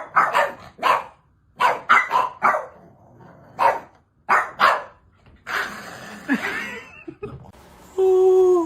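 A dog barking in quick runs, about ten sharp barks over five seconds, then a stretch of rustling noise. Near the end a held hooting call with a slight fall in pitch begins.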